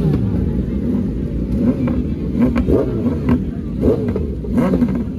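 Sport motorcycle engines idling and being revved in short, sharp throttle blips, about one a second, each rev rising and falling quickly.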